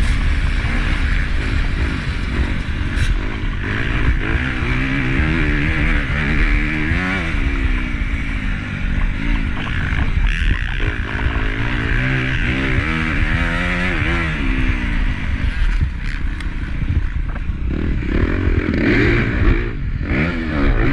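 Honda CRF250 motocross bike's single-cylinder four-stroke engine being ridden hard, its pitch rising and falling again and again as the throttle is opened and shut, over a rushing, clattering noise.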